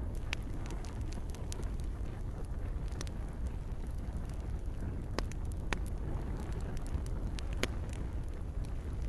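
Campfire crackling, with sharp pops and snaps at irregular intervals over a steady low rumble of burning, and gentle rain falling.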